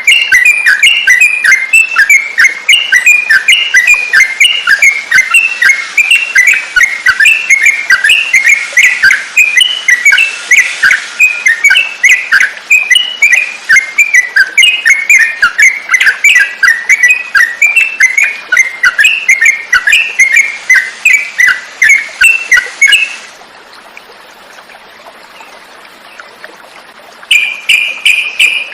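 Trucukan (yellow-vented bulbul) song, a fast run of short chirping notes, about four a second, that breaks off about 23 seconds in; after a short pause a denser, steady trill starts near the end.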